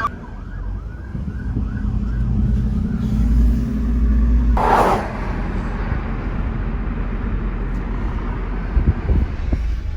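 A motor vehicle's engine and road noise as a steady low rumble. An emergency siren's warble fades out in the first second or so, and a short loud hiss comes about halfway through.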